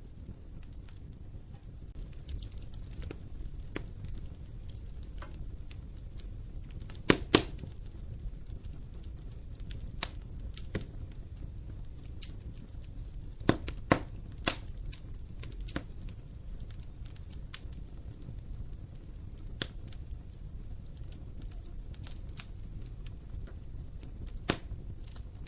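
Wood fire burning in a fireplace: a low steady rumble of flames with irregular crackles and sharp pops, the loudest pops coming in pairs about seven seconds in and again near the middle, with another near the end.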